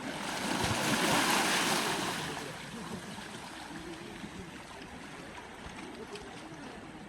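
Sea waves on the shore: one wave breaks and rushes in, swelling about a second in and fading by about two and a half seconds, followed by a lower, steady wash of surf.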